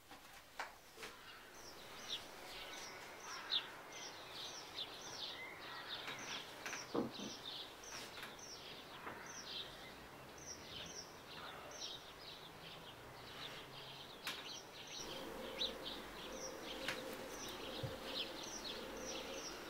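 Birds chirping, a long run of short quick chirps repeating two or three times a second, with a few light knocks. A faint steady hum comes in about three-quarters of the way through.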